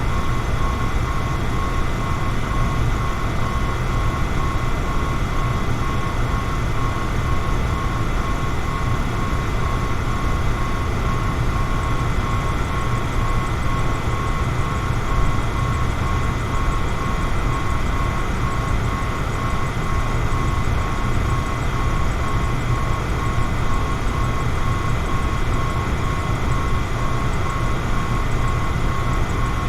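Electric fan running steadily: a constant rush of air over a low motor hum, with a thin whine that pulses evenly.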